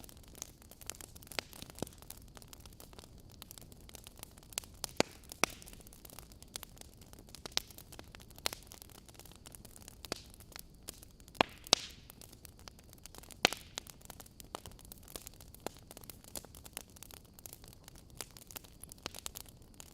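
Wood fire burning in a fireplace: steady low hiss with irregular crackles and sharp pops, a few louder snaps a little past the middle.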